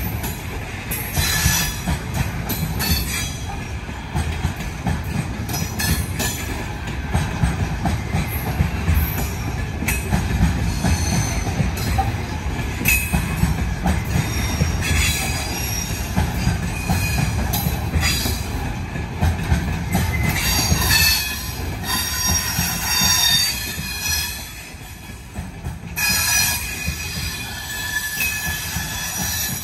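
Long container freight train rolling past: a steady low rumble of wagon wheels on the rails, with clatter and intermittent high-pitched wheel squeal. The sound eases briefly about four-fifths of the way through, then picks up again.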